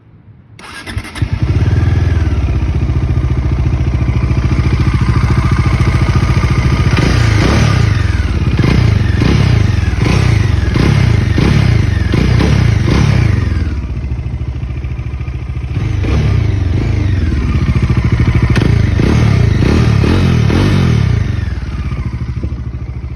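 Bajaj Dominar 400's single-cylinder engine started from cold in sub-zero air: it catches about half a second in and settles into a loud idle. It then takes two runs of repeated throttle blips, revs rising and falling several times, before dropping back to a steady idle near the end.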